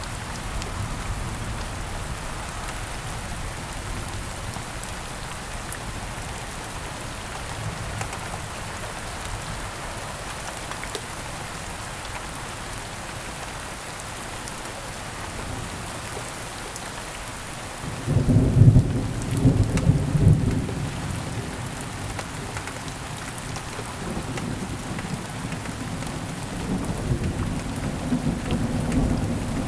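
Heavy rain falling steadily, with a loud crack-and-rumble of thunder about two-thirds of the way through, and a further low rumble of thunder building near the end.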